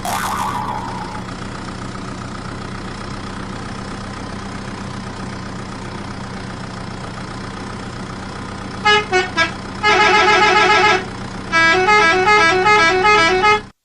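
A sudden sharp hit with a short ringing tail, then a steady vehicle engine hum. From about nine seconds in, an electronic vehicle horn beeps out a quick tune of stepping notes, loud and in a few runs.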